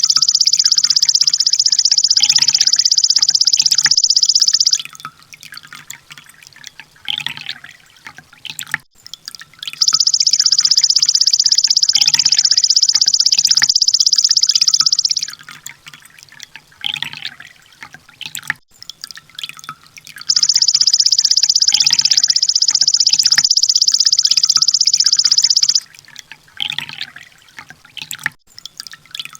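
Songbird tutor recording: a rapid, machine-gun-like high trill held for about five seconds, repeated three times about ten seconds apart, with softer short chirps in between.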